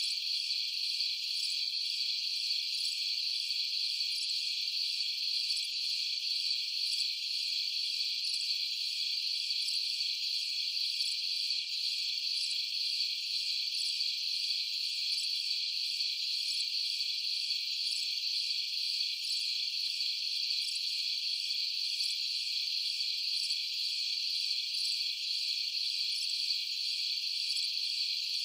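Night chorus of crickets: a dense, steady, high-pitched trilling that never lets up.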